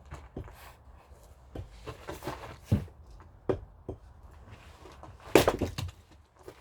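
Irregular wooden knocks and thuds of firewood being worked, the loudest a sharp hit about five and a half seconds in.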